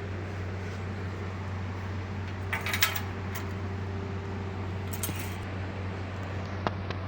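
Loose metal parts clinking and jangling in two short bursts, about two and a half seconds in and again around five seconds, with a single sharp click near the end, over a steady low hum.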